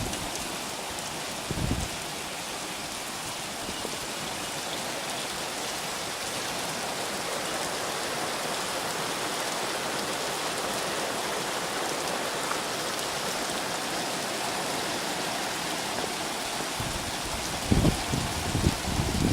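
Heavy rain pouring down in a steady, dense hiss. A few short low thumps come about two seconds in and again near the end.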